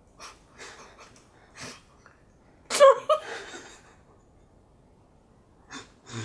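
Muffled laughter and short breathy puffs from a person with a mouth stuffed full of marshmallows: a few quick puffs, a louder burst of laughter about three seconds in, then another puff near the end.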